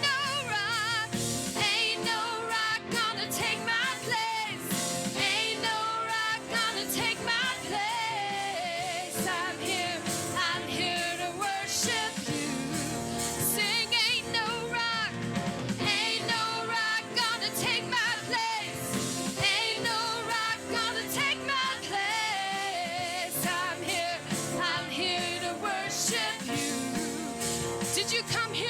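Live gospel worship music: singing over instrumental accompaniment, the voice holding and sliding through long wavering notes.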